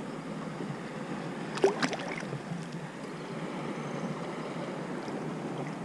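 Water and wind noise around a kayak on open water, with a couple of short knocks about one and a half to two seconds in.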